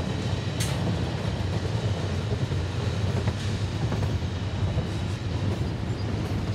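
Train running by with a steady low rumble.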